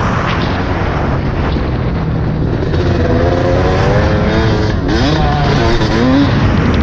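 Yamaha YZ250 two-stroke dirt bike engine running under riding, its revs rising and falling several times in the second half.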